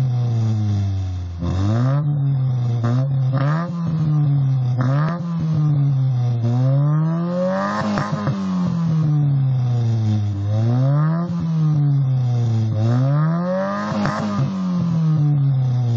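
1997 Kia Sephia's four-cylinder engine revved repeatedly through an aftermarket M K Power exhaust, the pitch climbing and falling back with each blip of the throttle, roughly every one to two seconds.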